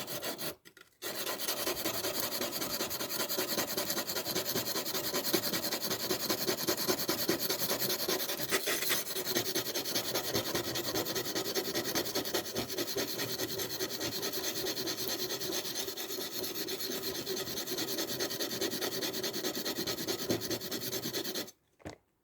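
Victorinox pocketknife blade being ground on a sharpening stone in rapid, steady back-and-forth scraping strokes, working down the bevel at the tip. The scraping starts about a second in and stops suddenly shortly before the end.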